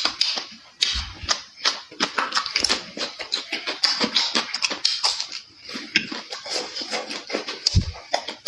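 Close-up mouth sounds of eating: chewing and smacking, a rapid irregular run of clicks and crackles.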